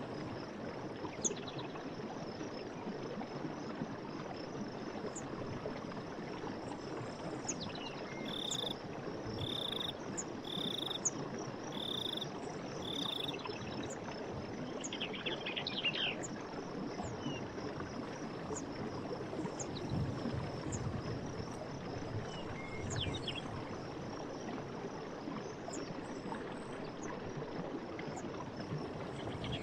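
Night forest ambience: a steady rush of running water under a continuous high insect trill. In the middle, a creature calls five times, about one short note a second, and a few quick chirps come later.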